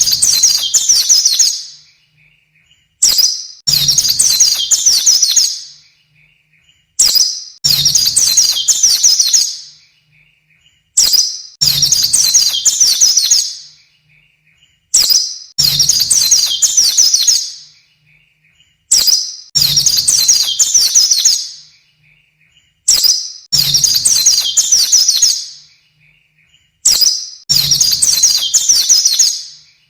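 White-eye (pleci) song, looped as a masteran training recording for cage songbirds. Each phrase is a short high note followed by about two seconds of fast, high twittering, and it comes back evenly every four seconds or so.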